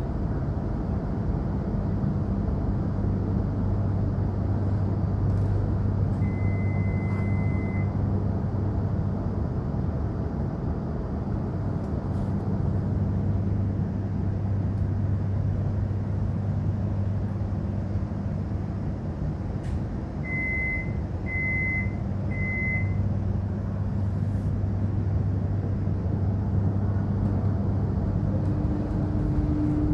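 Steady low hum of an electric suburban train's equipment while the train stands or runs slowly. One long high beep comes about six seconds in, and three short beeps about twenty seconds in. Near the end a rising whine begins as the traction motors start to pull.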